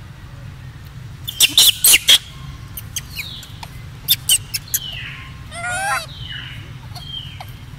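Birds chirping: two clusters of sharp high chirps, short falling whistles, and one wavering call about six seconds in.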